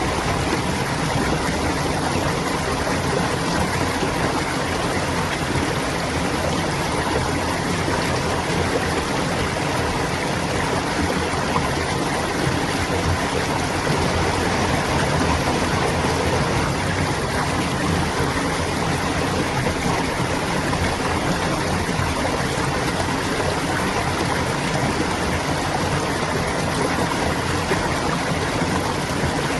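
Clear water babbling and trickling steadily over stones in a shallow stream.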